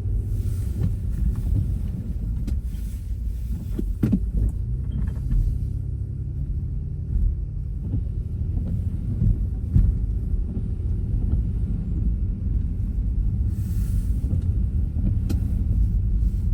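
Car driving on a snow-covered road: a steady low rumble of tyres and engine, with a few faint clicks.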